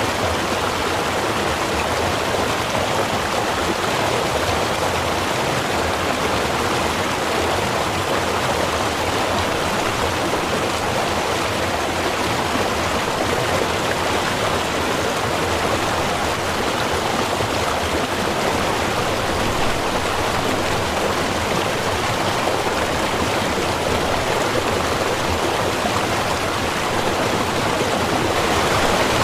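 Small river running over stones, a steady rushing of water with no let-up.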